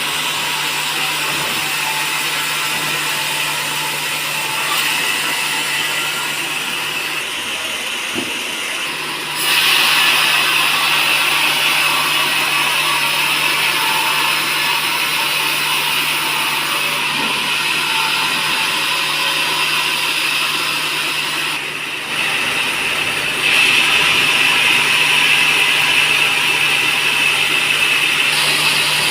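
Sawmill saw running through teak timber: a steady, hissing cutting noise over a constant low hum. It gets louder about nine seconds in and again near twenty-four seconds.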